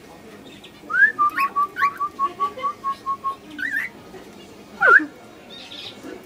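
Whistling: a rising note, then a run of about ten short, even notes at one pitch, then a couple of rising notes and a quick falling glide.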